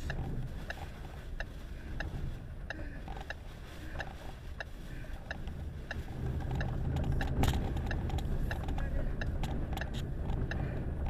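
Car indicator ticking steadily, about three clicks every two seconds, over a low rumble of wind and road noise inside the car. The rumble grows louder about six seconds in.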